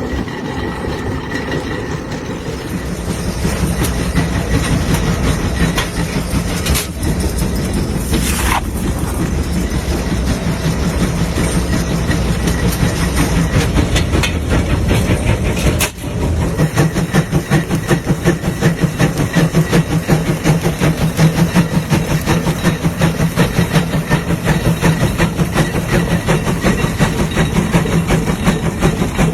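Tractor engine running steadily with a fast, even chugging. The sound dips briefly about sixteen seconds in, then carries on.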